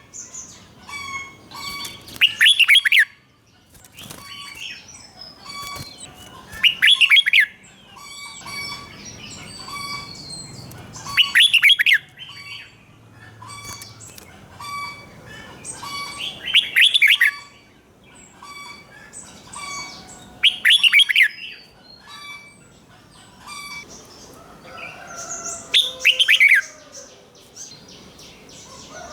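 Red-whiskered bulbul singing short, loud warbled phrases, six of them, one every four to five seconds. Softer chirps and whistles fill the gaps between the phrases.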